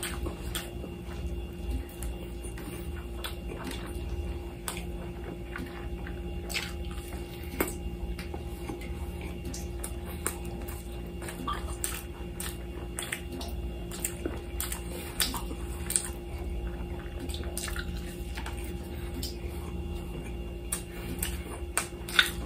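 Wet, close-up eating sounds of a mukbang: chewing and lip smacks of someone eating grilled lamb chops and rice by hand, heard as irregular sharp smacks and clicks, several a second at times, over a steady low hum.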